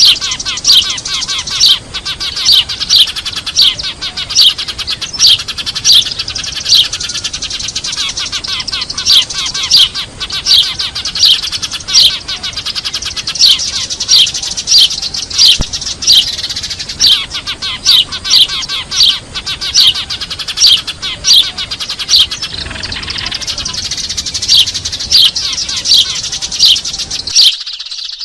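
A flock of Eurasian tree sparrows chattering noisily: a dense, unbroken stream of sharp chirps with louder single chirps standing out every second or so. This is a lure call ('suara pikat') played to draw sparrows in.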